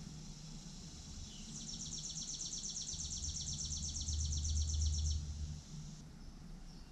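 A small bird sings one rapid, even, high-pitched trill of about ten notes a second, lasting three and a half seconds, over a low rumble that swells and then drops away just after the trill ends.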